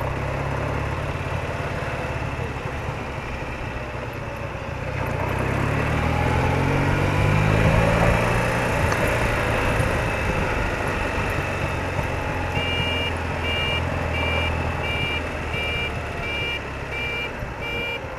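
BMW R80RT's air-cooled boxer twin running with road noise, its engine note rising around the middle. From about two-thirds in, a two-tone electronic beep repeats a little under twice a second.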